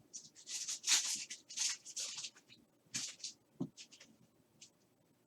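Baseball trading cards being handled: a run of rustling, sliding swishes over the first two and a half seconds, then a few softer swishes and a light tap.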